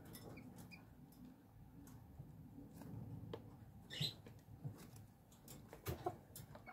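Faint sounds of small chickens: a few short, soft chirps and scattered light scratching and rustling, with one slightly louder chirp about four seconds in.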